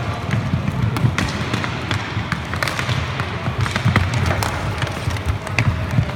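Inline roller hockey play: a steady low rumble of skate wheels rolling on the rink floor, with sharp, irregular clacks of sticks striking the puck and the floor.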